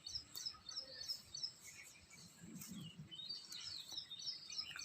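Faint bird chirping: rapid runs of short, high, repeated notes that thin out in the middle and pick up again about three seconds in, over quiet outdoor background.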